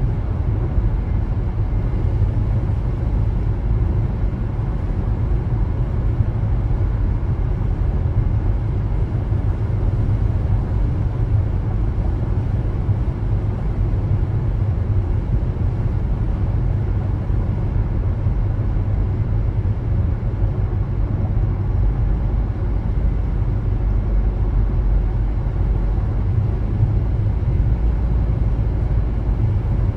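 Car driving: a steady low rumble of engine and tyre noise.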